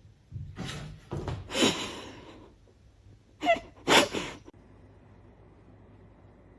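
Sneezes in two clusters: several short bursts in the first two seconds, the loudest about a second and a half in, then two loud ones close together about three and a half to four seconds in.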